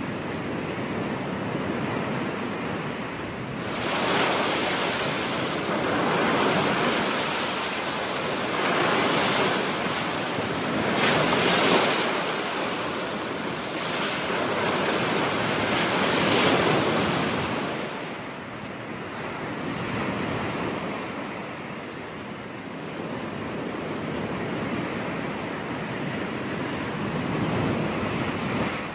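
Ocean surf breaking on a beach: a steady wash of waves that swells with each breaker, several larger waves crashing one after another through the first half, then settling into a softer wash.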